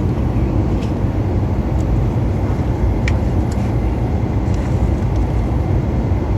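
Steady low rumble of engine and airflow noise inside the cabin of a Boeing 737 in flight on approach, with a few faint clicks.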